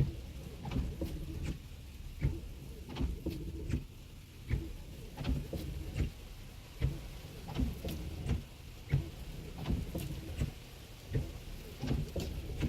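Raindrops tapping on the windshield and glass roof of a Tesla Model X, heard from inside the cabin: an irregular patter of short taps, about one or two a second, over the low rumble of the slow-moving car.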